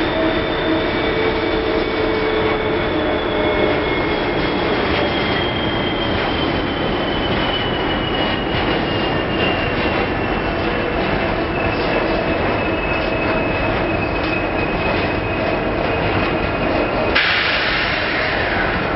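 Freight train boxcars rolling past at close range: a steady rumble of steel wheels on rail, with a thin high wheel squeal that slowly falls in pitch. A diesel locomotive's hum fades out in the first few seconds, and near the end a louder hiss cuts in suddenly.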